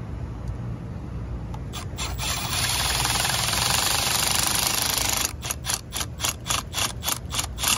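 Cordless power driver running a self-tapping screw into sheet metal. It runs steadily for a few seconds, then gives a string of short trigger bursts, about four a second.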